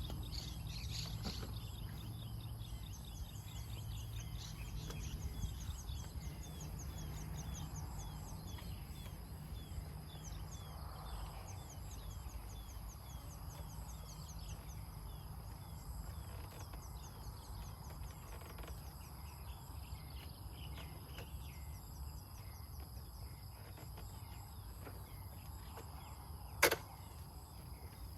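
Outdoor daytime ambience: insects chirping in fast repeating trills with a steady high drone, birds calling, and a low rumble underneath. One sharp click sounds near the end.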